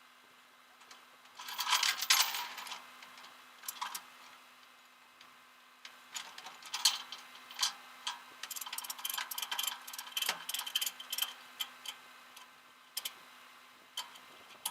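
A run of irregular sharp clicks and light rattles, like small hard objects being handled, coming in a dense cluster near the start and a longer scattered run in the middle.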